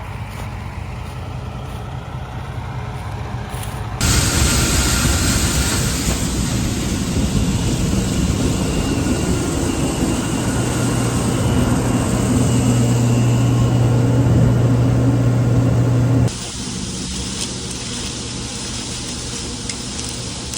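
Combine harvester running with steady engine and machinery noise. About four seconds in it becomes much louder, with a strong hiss and a low hum, then drops back to the quieter level about four seconds before the end.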